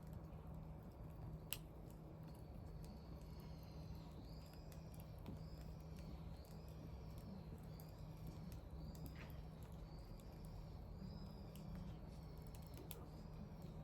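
Faint wood fire burning with occasional sharp crackles, one louder pop about a second and a half in. From about four seconds in, a small bird gives a steady series of short, high chirps, roughly one or two a second.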